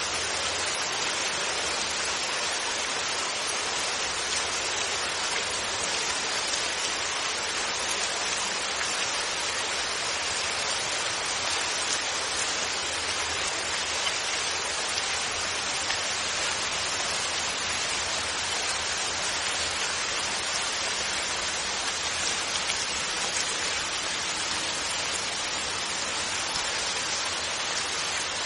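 Steady rain falling, an even hiss with no thunder and no change in strength.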